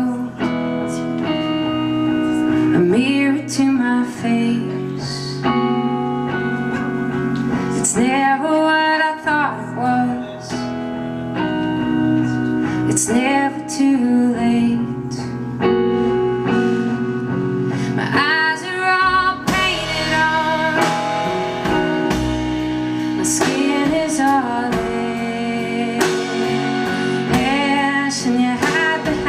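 Live band music: a woman singing over acoustic guitar. About two-thirds of the way through, the sound grows fuller in the low end as more of the band comes in.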